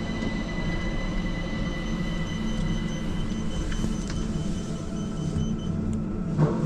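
Elizabeth line Class 345 electric train: a steady low hum with thin high-pitched tones over it that stop about three-quarters of the way through, and a short knock near the end.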